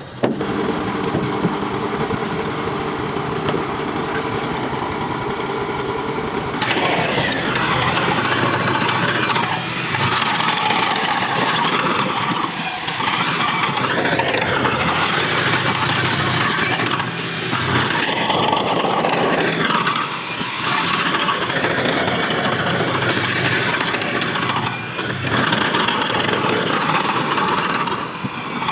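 Diesel engine of heavy earthmoving machinery running: a steady engine note at first, then from about six and a half seconds in a denser, noisier sound that rises and falls in pitch every few seconds as the machine works.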